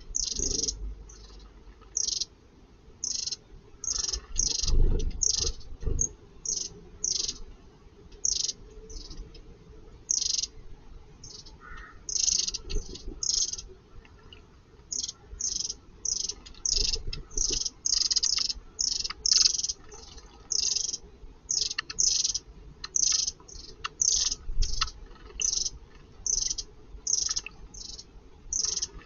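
Small garden birds calling with short, high chirps, repeated about once or twice a second, with a few low rumbles in between.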